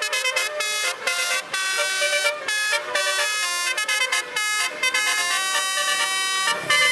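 Truck basuri horn, a set of musical air horns, playing a quick tune: note after note with short breaks between them, several tones sounding together.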